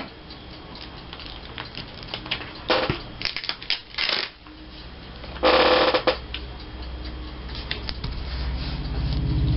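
Paper and cardstock scraps being handled on a craft table: scattered light taps, clicks and rustles, with a louder rustle about five and a half seconds in. A low hum builds near the end.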